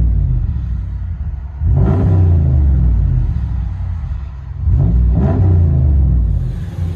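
Ram 1500's 5.7-litre Hemi V8 through a Flowmaster Outlaw muffler with a Y-pipe and the stock resonators, heard from inside the cab. It is blipped repeatedly: the tail of one rev at the start, then two more revs about three seconds apart, each climbing in pitch and settling back toward idle.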